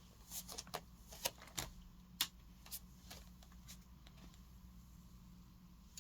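A scattered run of light clicks and taps, like small objects being handled, in the first three seconds, then only a faint steady low hum.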